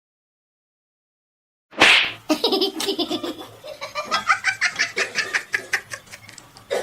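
A sudden burst of noise about two seconds in, followed by a person laughing in quick repeated bursts.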